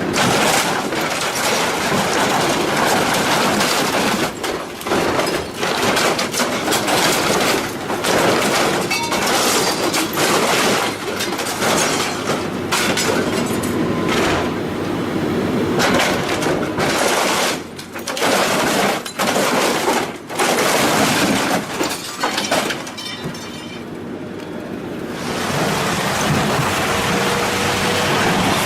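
Heavy machinery tearing and crushing scrap metal: continuous loud grinding and crunching with irregular cracks and breaking sounds, changing character about 25 seconds in.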